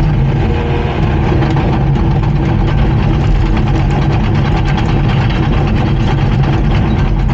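Heavy diesel engine of a Komatsu D39PX bulldozer running steadily with a low, even drone.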